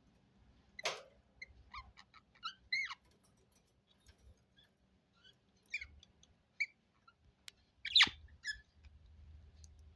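Budgerigars giving short, scattered chirps and squeaky calls, with two louder, harsher squawks: one about a second in and one near the end.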